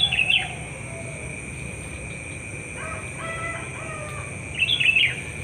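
A rooster crows faintly about three seconds in. Short, high bird calls come at the start and again near the end, over a steady high insect drone.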